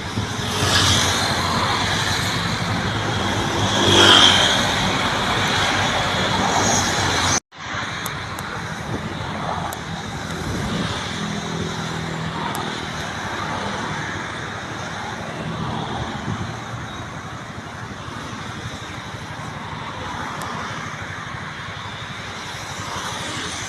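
Outdoor noise of passing road traffic, a steady wash with a louder swell about four seconds in. The sound cuts out for a moment about seven and a half seconds in, then the traffic noise carries on a little quieter.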